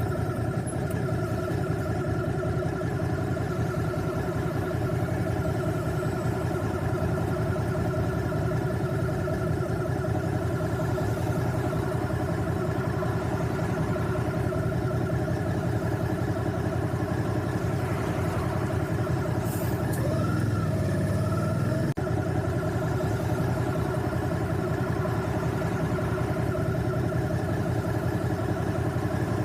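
Motorcycle engine idling steadily, with no revving. A faint brief chirp comes about two-thirds of the way through, and a sharp click follows soon after.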